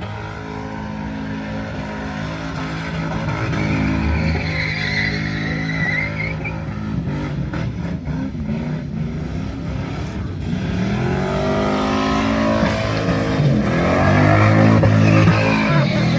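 Car engine revving hard, its pitch rising and falling repeatedly and growing louder toward the end.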